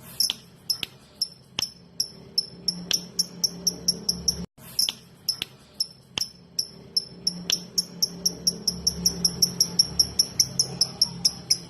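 Lovebird 'ngetik': short, sharp high chirps repeated in a series, sparse and uneven at first, quickening to about four a second near the end, with a brief break about halfway.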